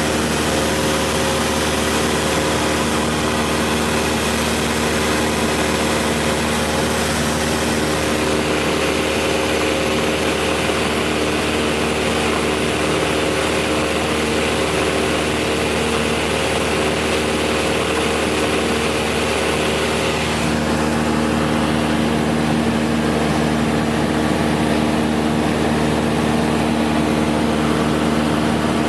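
Cessna 172 SkyHawk II engine and propeller droning steadily in flight, with the tone shifting slightly about 8 and 20 seconds in.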